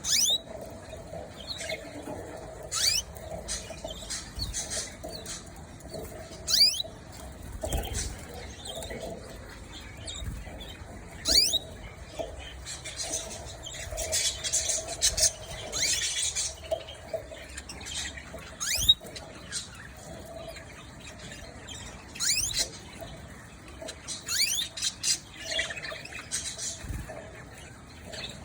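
Pet canaries calling with short, sharp falling chirps every few seconds, and a denser stretch of high-pitched chattering in the middle.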